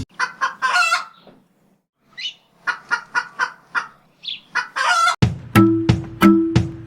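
A hen clucking, a string of short clucks broken by a couple of brief rising squawks and a pause of about a second. About five seconds in, music with a tabla beat starts.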